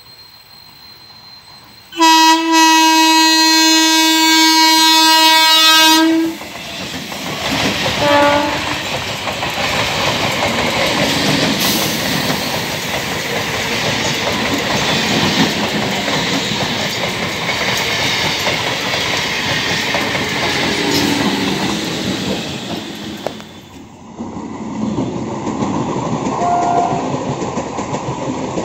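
Electric multiple unit (EMU) suburban train sounding one long horn blast of about four seconds and a short second toot, then rattling past at speed with its wheels clattering on the rails. After a sudden cut near the end, another EMU train clatters by close up.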